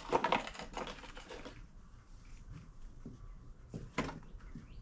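Light clicks, taps and rustles of small parts and packaging being handled on a workbench, with one sharper click about four seconds in.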